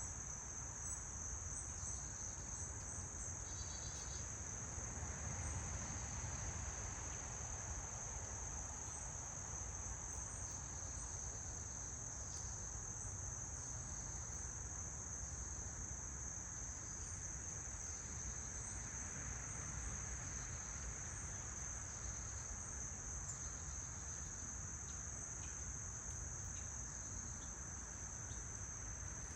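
Crickets trilling in one unbroken high-pitched drone, with a low rumble underneath.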